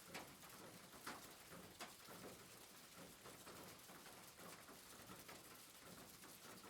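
Faint soft rain falling steadily, with occasional louder drops or drips about once a second.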